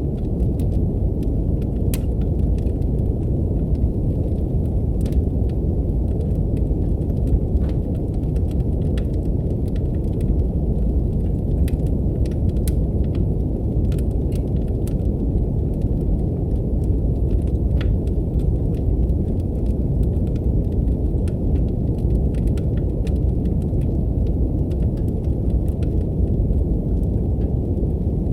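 Steady brown noise, a deep even rumble, mixed with a wood fire crackling in a fireplace: scattered sharp pops and ticks at irregular moments over the rumble.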